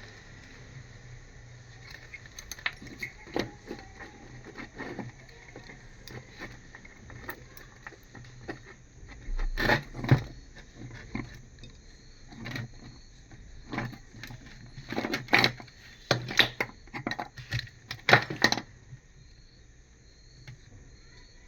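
Irregular clicks and light metallic clinks from small metal parts or tools being handled, thickest in the middle stretch, over a faint steady hum.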